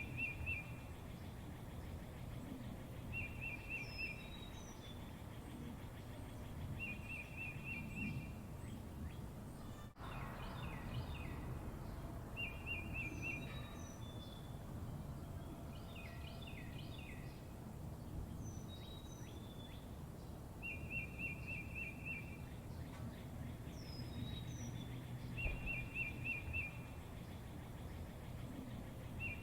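Birds calling outdoors: one bird repeats a short, fast trill every three or four seconds while others give brief chirps, over a steady low rumble of outdoor background noise.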